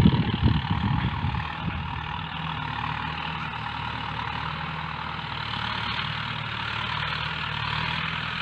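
Farm tractor engine running steadily, with a few low knocks in the first second.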